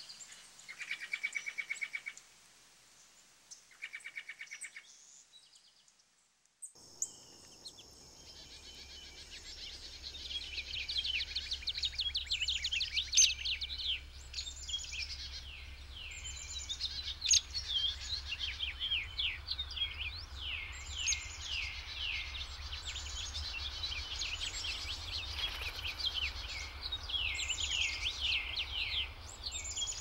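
Wild birds calling: two short, rapid chattering trills in the first few seconds, then, after an abrupt change, a dense chorus of quick downward-slurred chirps over a low steady hum.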